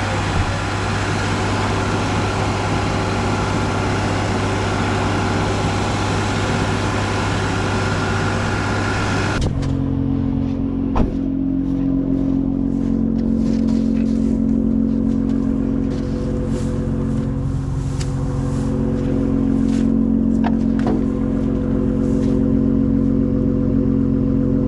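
A vehicle engine running steadily. For the first part it sits under a broad rushing noise; about halfway through the sound changes suddenly to a steadier, lower hum with a few light clicks.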